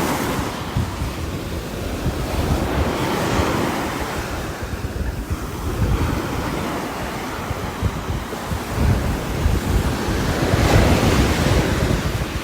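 Heavy rain with strong, gusting wind that swells and eases every few seconds, and a deep rumble of wind buffeting the microphone.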